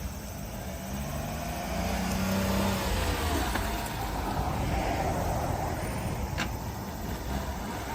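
Engine and road rumble of a 1997 Daihatsu Hijet mini truck's small three-cylinder engine, with the engine note rising and getting louder about two seconds in.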